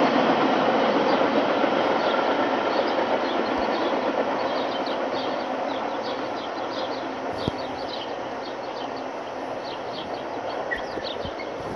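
Freight train rolling by, its wheel and rail noise fading steadily as the last cars draw away. Birds chirp repeatedly, clearer as the train noise dies down.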